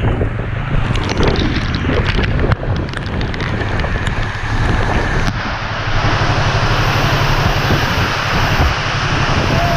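Strong wind buffeting the microphone, with a Yamaha R3's parallel-twin engine running steadily underneath. About five seconds in, the hiss gets louder and brighter.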